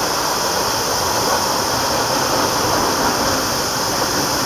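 Norfolk Southern intermodal freight train rolling past, a steady, even noise with no distinct clanks or horn.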